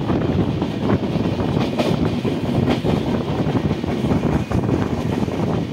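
Indian Railways express passenger train running at speed, heard from an open door of a coach: a steady rumble of wheels on rail with a few sharp clacks.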